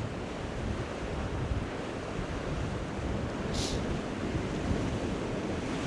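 Sea surf washing on a rocky shore, with wind buffeting the microphone in a low, gusty rumble. A brief hiss about three and a half seconds in.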